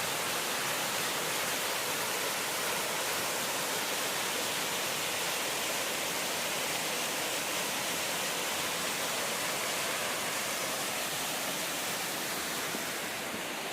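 Roadside waterfall, water falling in a steady rush.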